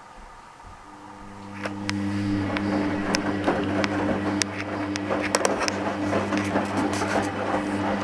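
Hoover Dynamic washing machine in its rinse: about a second in the drum motor starts with a steady hum, and water and wet laundry splash and knock irregularly as the drum turns.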